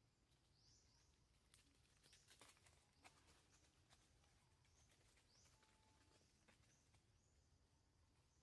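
Near silence, with faint high chirps repeating about once a second from a bird, and a few soft clicks.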